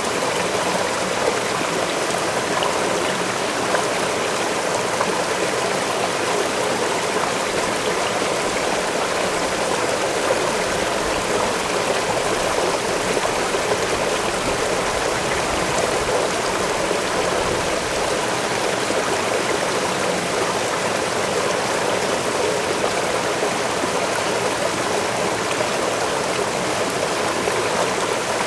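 Waterfall and stream water rushing steadily, an even splashing noise without breaks.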